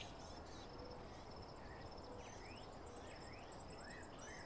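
Faint outdoor ambience of birds chirping: a high, fast, steady pulsing trill, with several short swooping chirps in the second half.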